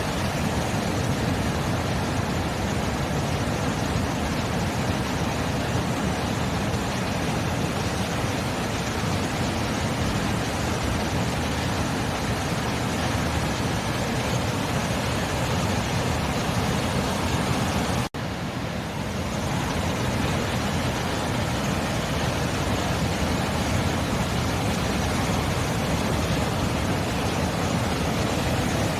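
Ocean surf: a steady, dense rush of breaking waves, with a momentary dropout about two-thirds of the way through.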